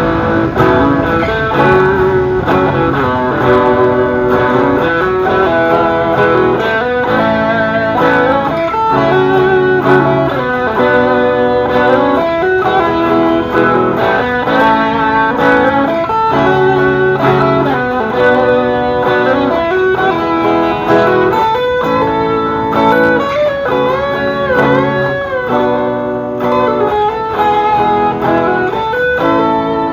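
Electric guitar playing a melodic instrumental outro of a pop song over a chord backing, with several bent notes in the second half.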